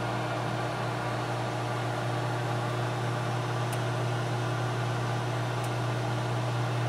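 Microwave oven running with a steady low electrical hum and fan noise, with two faint ticks in the middle.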